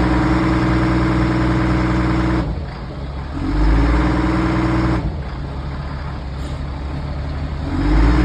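LMTV truck's diesel engine revving hard under load while climbing onto a trailer. It holds a steady high pitch, drops off suddenly twice and revs up again near the end. The engine is making no turbo boost because a turbo tube is missing.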